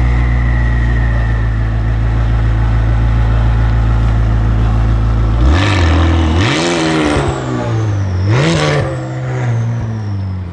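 McLaren 600LT's twin-turbo V8, with catless downpipes, idling loudly and steadily, then revved in two sharp blips about halfway through before the car pulls away.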